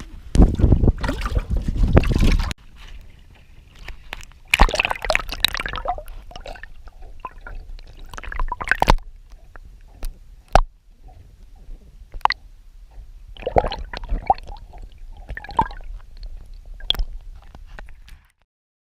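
Handling noise as the camera is put away: an irregular run of rubbing, scraping and sharp knocks, heaviest in the first two seconds. It cuts off suddenly near the end.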